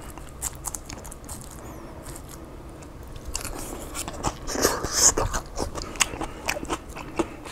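A fork stirring through a takeout bowl of chicken, lettuce and salsa, then a bite about halfway through and close-up chewing of the crisp lettuce and chicken, with small crunches and mouth clicks.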